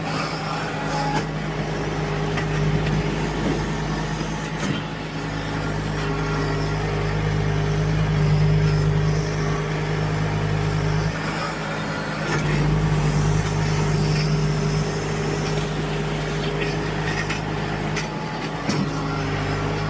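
John Deere tractor engine running steadily, its note easing briefly about eleven seconds in before picking up again.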